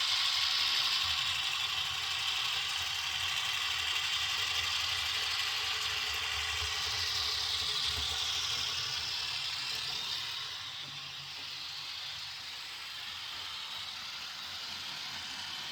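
HO scale model train with four-axle diesel locomotives running along sectional track at above normal operating speed: a steady whir and rattle of motors and wheels, which gets quieter about ten seconds in.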